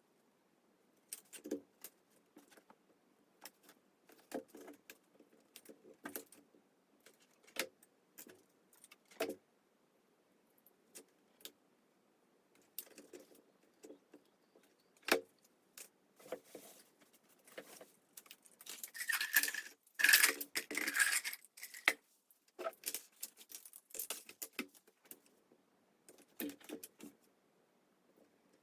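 Hands handling small craft materials on a work surface: scattered light clicks, taps and clattering, with a louder stretch of scraping and crinkling about two-thirds of the way through.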